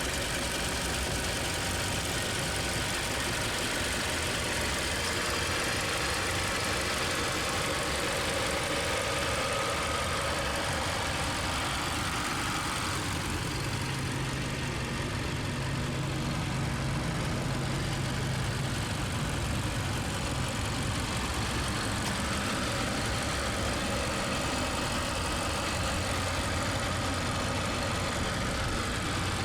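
A 2015 Mazda CX-5's 2.5-litre inline-four petrol engine idling steadily, with a low hum that grows a little stronger for several seconds midway.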